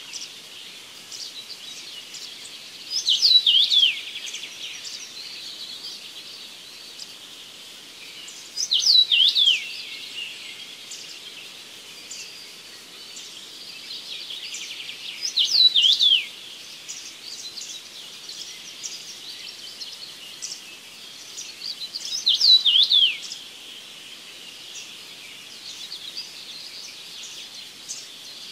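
A songbird singing a short phrase of quick descending whistles about every six seconds, four times, over a steady background of faint high chirping.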